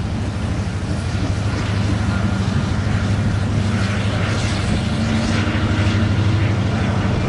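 Empty BNSF coal train rolling by, a steady low rumble of wheels on rail. Brief high metallic screeches come in from about halfway through.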